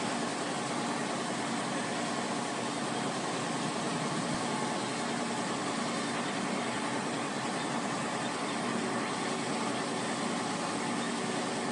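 CNC plasma cutter's arc running steadily through a cut: an even hiss with a faint hum under it.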